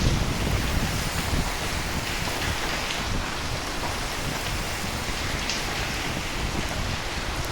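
Steady rain, with a low rumble of thunder that fades over the first second or so.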